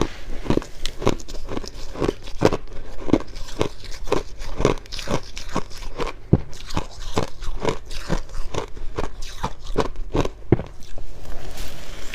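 Close-miked chewing of crunchy freezer frost: a steady run of dry crunches, about three a second.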